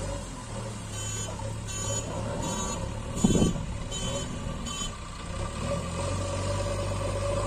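Electronic reversing-style beeping from a toy vehicle's sound unit: six short beeps about 0.7 s apart, over a steady hum. A short low thump comes midway through the beeping.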